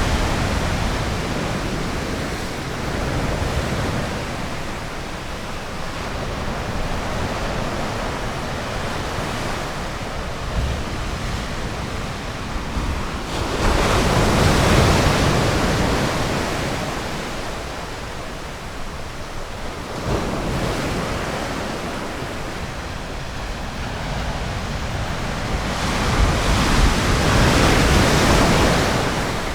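Ocean surf: waves breaking on a beach in a steady wash. Two larger waves crash in louder, about halfway through and again near the end, each swelling for a few seconds and then fading back.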